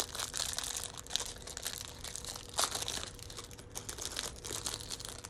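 Plastic Lego parts bag crinkling and crackling as it is handled and rummaged through, with irregular sharp crackles throughout.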